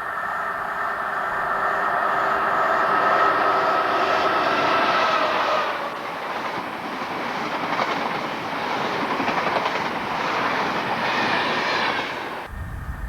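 A train passing at speed: a whine that grows louder as it approaches, then the loud rush of the train going by with rapid wheel beats over the rail joints, cutting off suddenly near the end.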